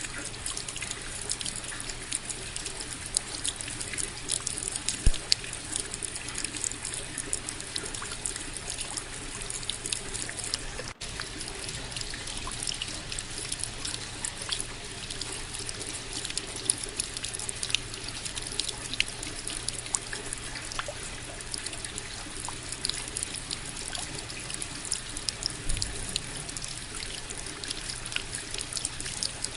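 Steady rain: a dense patter of individual drops over a continuous wash of falling and trickling water. It cuts out for an instant about eleven seconds in.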